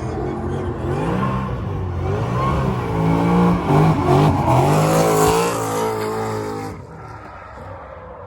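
Drift car's engine revving up and down again and again under hard driving, with a hiss that builds up in the middle; the sound drops away about seven seconds in.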